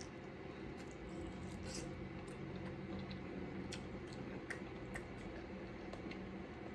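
Close-miked eating sounds: quiet wet chewing with scattered small clicks and smacks.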